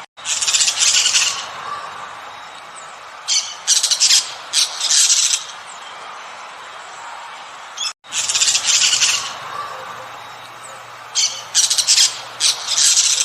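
Harsh bird squawks: one long call near the start, then a quick run of shorter squawks a few seconds later, over a steady background hiss. After a brief dropout about eight seconds in, the same sequence repeats.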